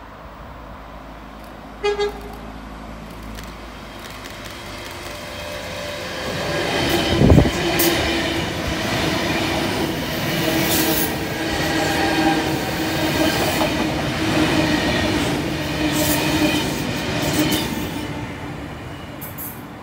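A short train horn toot. Then a Sydney C set double-deck electric train passes close by on the next track. Its noise builds to a loud thump as the front goes by, then holds as a steady rush of wheel clatter and hum for about ten seconds before dropping away.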